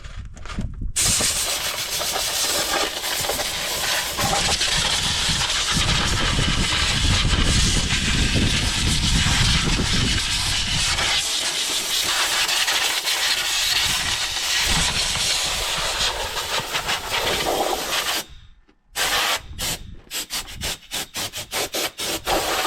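Compressed-air blow gun blasting air over a tractor engine to blow off grease: a long steady hiss, then a brief stop and a run of short bursts near the end.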